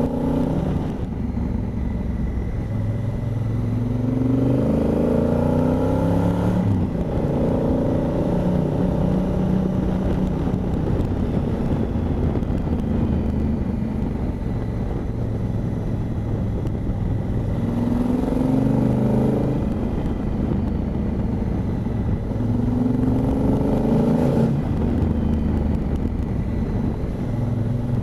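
Honda Africa Twin's parallel-twin engine running under way, over steady wind rush. Several times its note climbs as the bike accelerates, then drops back at a gear change.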